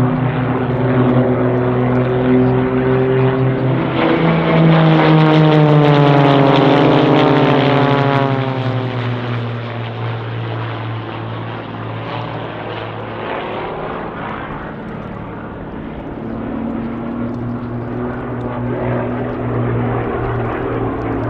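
Propeller aircraft flying a formation pass, their engines' pitch falling as they go by, loudest about a quarter of the way in. The sound then fades, and an engine drone builds again near the end.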